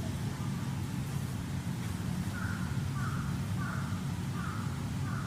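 A crow cawing five times in a quick series, about one caw every 0.7 s, in the second half. A steady low hum runs underneath.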